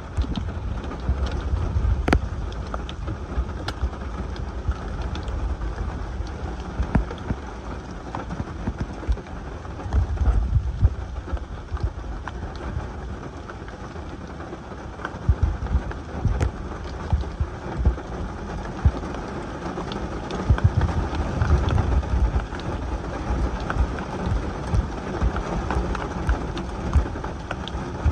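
Rain shower falling, heard from inside a car, with scattered sharp drop hits and a steady hiss that grows heavier in the second half. Bouts of low rumble come and go, the loudest parts of the sound.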